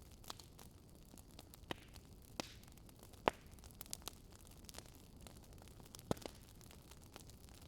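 Wood fire crackling, faint: a steady soft hiss with sharp pops at irregular intervals, the loudest a little over three seconds in and another about six seconds in.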